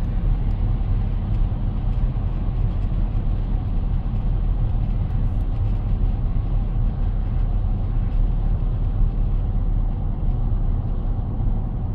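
Steady road and engine rumble inside a moving car's cabin, with faint, irregular short ticks from a rattle or squeak under the dashboard (a 'cricket').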